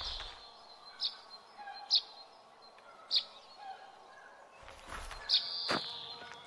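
Small birds chirping: short high chirps about once a second, with a longer held high note near the start and again near the end, over faint background noise.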